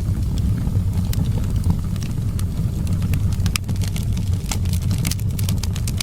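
Wood fire crackling, with many scattered sharp pops and snaps over a steady low wind rumble.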